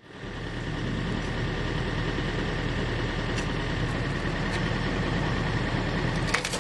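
Hydraulic log splitter's power unit running steadily as the ram works, starting abruptly and building over the first second, with a few sharp cracks near the end.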